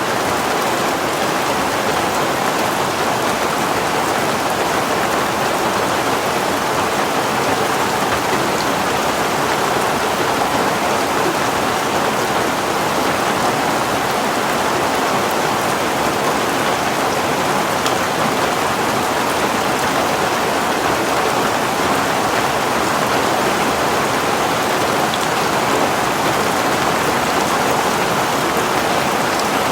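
Heavy rain falling steadily, a dense even hiss of rain on surfaces with scattered individual drops.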